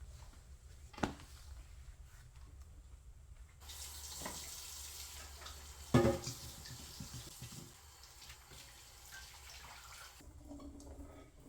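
Water running from a tap into a sink for several seconds, then turned off near the end. A sharp knock comes about a second in, before the water starts, and a louder clunk sounds midway while the water runs.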